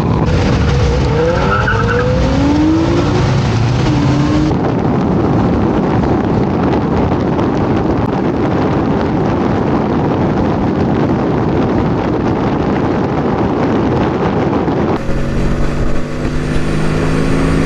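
Motorcycle being ridden: its engine running under a dense, steady rush of wind and road noise, with rising and falling pitch glides in the first few seconds. Near the end the rush gives way to a steady engine hum.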